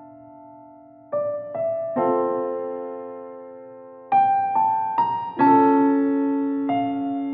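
Slow, gentle solo piano music. Single notes and chords are struck and left to fade, with a quiet gap before the first notes about a second in and fuller chords from about four seconds in.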